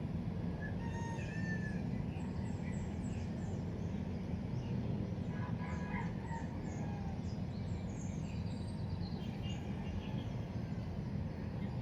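Birds chirping in many short, scattered calls over a steady low rumble of background noise.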